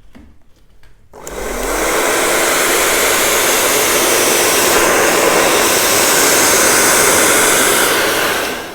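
Hand-held blow dryer switched on about a second in, its motor tone rising as it spins up. It then blows steadily at full speed and is switched off near the end.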